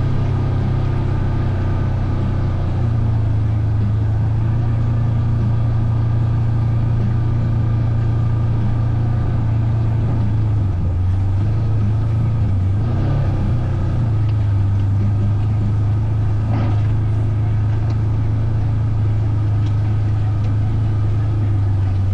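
Vehicle engine running at a steady, low drone; its pitch dips and wavers briefly about halfway through.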